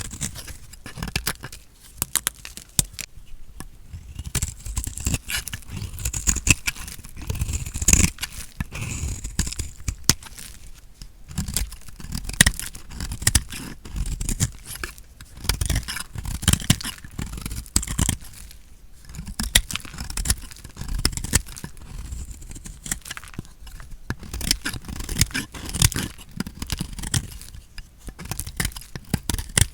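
A blade cutting through bar soap: a continuous run of crunchy crackles and scrapes as it pushes through, with a few sharper cracks.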